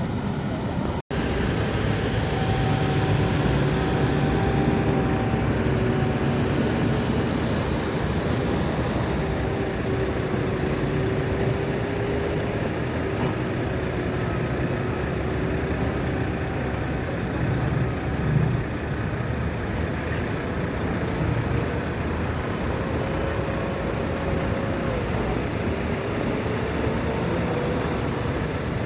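Heavy diesel construction machinery running steadily, the engine pitch drifting slowly up and down as the machines work. The sound cuts out briefly about a second in.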